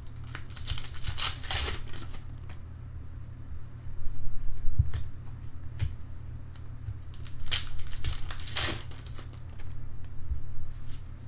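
Wrapper of a 2013 Bowman Draft baseball card pack being torn open and crinkled, in two main spells of rustling, one near the start and one about eight seconds in, with small clicks of cards being handled between. A steady low hum runs underneath.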